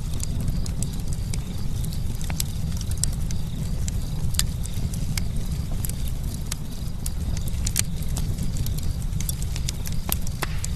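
Campfire burning: a steady low rumble of the flames with frequent sharp, irregular crackles and pops from the burning wood.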